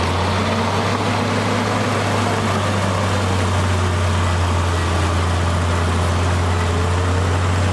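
Diesel engine of a heavy earthmoving machine running steadily, a constant low hum under even engine noise.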